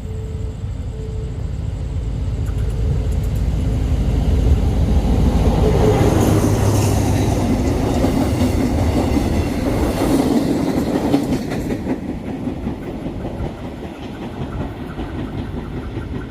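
A train passing, its wheels clattering over the rails; the sound builds to its loudest in the middle and then fades.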